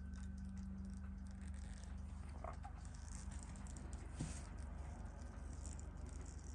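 Steady low hum of amplified room noise, with a couple of faint light clicks about two and a half and four seconds in.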